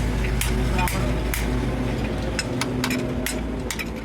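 Workshop clatter during truck wheel-hub repair: irregular sharp metal clicks and knocks, several a second, over a steady low machine hum.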